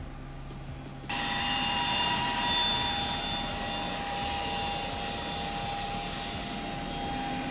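Faint music for about a second, then an abrupt cut to the steady noise of a Cessna 172's engine and propeller heard from the cabin, with a few steady high whines over it.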